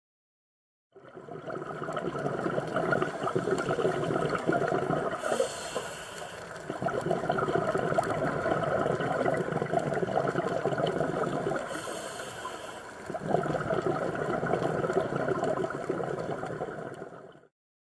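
Scuba diver breathing through a regulator underwater: long stretches of bubbling, broken twice by a short, higher hiss.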